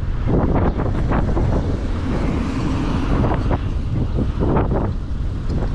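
Wind buffeting the microphone of a chest-mounted action camera on a moving bicycle: a steady low rumble with irregular gusty surges.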